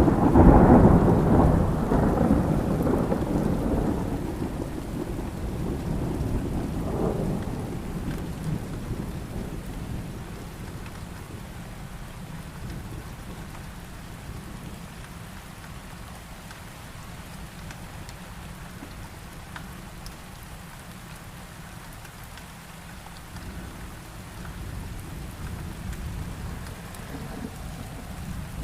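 A thunderclap breaks in suddenly and rumbles away over about ten seconds, over steady heavy rain; a fainter rumble swells again near the end.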